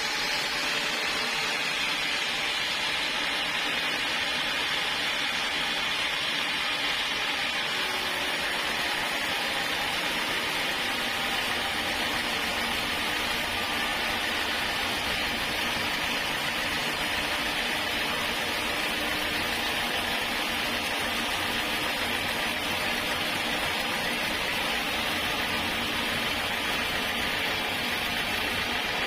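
Sawmill saw running through a log: a steady, unbroken hissing whir.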